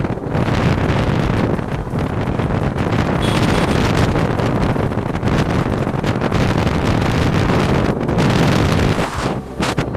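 Wind buffeting the microphone over the rumble of a moving vehicle on the road.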